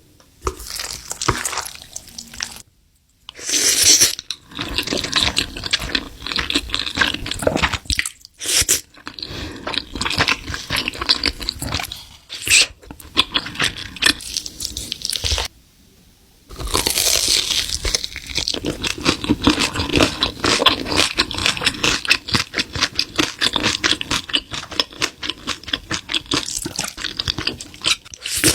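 Loud, close-miked crunchy chewing and biting of food, a dense run of crackling crunches broken by a few short pauses.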